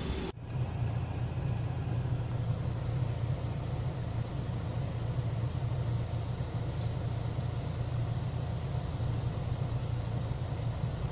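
Truck engine running with a steady low rumble, after a brief break in the sound just after the start.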